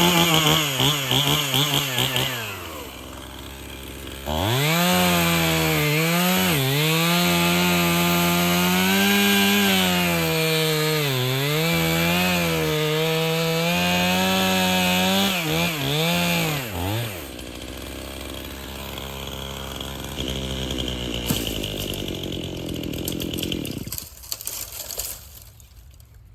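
A 50 cc two-stroke Stihl MS271 chainsaw cutting wood. It runs at full throttle, drops briefly to idle, then revs up again for about twelve seconds while its revs sag and recover under load in the cut. It then idles and is shut off near the end.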